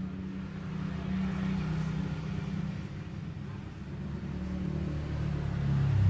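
A cat purring, a low steady rumble that swells and eases with its breathing.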